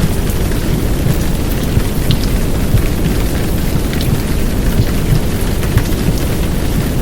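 Heavy downpour of rain, a dense steady hiss with fine drop ticks, mixed with a womb sound: a deep muffled rumble with low heartbeat-like thuds under it, as played to settle a crying baby.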